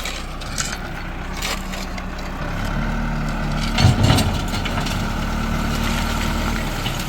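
Tractor engine running, its note stepping up under load about two and a half seconds in and easing off near the end. A loud crunching of breaking material comes about four seconds in.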